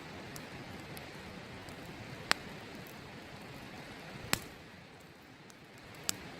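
Wood campfire crackling, with three sharp pops about two seconds apart, over the steady rush of a nearby river.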